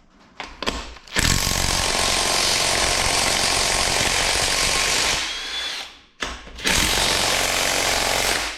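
Cordless impact wrench hammering on a bolt of an engine block, in two long runs about a second and about six and a half seconds in. The first run fades away, and its battery is running flat.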